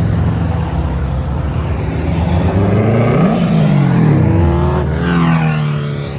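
Japanese performance car engines running as cars pull away. A steady low engine note gives way about halfway through to a rising then falling pitch as a car accelerates past, and another engine revs up near the end.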